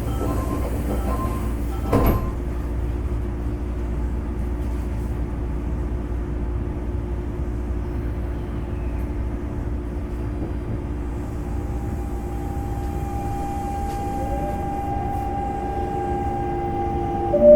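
Inside a stopped Semboku 5000 series commuter train: a short door chime, then the sliding doors shut with a thud about two seconds in, followed by the steady hum of the car's air conditioning. About eleven seconds in a steady high tone sets in, and at the very end the Hitachi GTO VVVF inverter starts its rising whine as the train pulls away.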